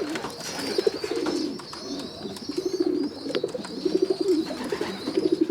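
Racing pigeons cooing in the loft: several low, pulsing coos follow one another every second or so.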